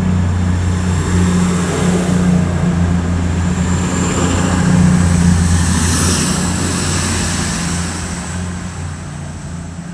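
Class 222 Meridian diesel multiple unit's underfloor diesel engines running with a steady low drone as the train pulls out, fading away over the last couple of seconds.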